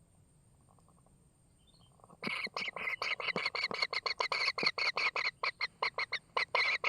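Kingfisher calling in a fast run of sharp, repeated notes, about six a second, starting a couple of seconds in and going on without a break.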